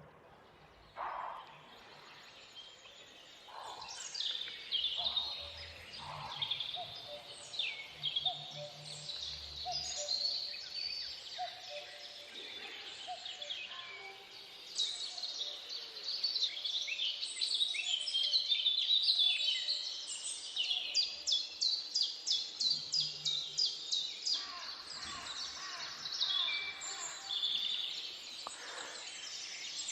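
Several birds singing and calling in a forest chorus, a mix of chirps and whistles that grows busier, with a fast series of repeated notes, about three a second, in the second half.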